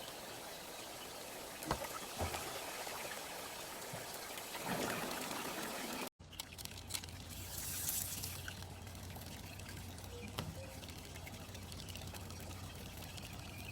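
Rain falling steadily, an even hiss of water. About six seconds in it cuts off abruptly and gives way to softer rain with a low steady hum underneath and a few light clicks.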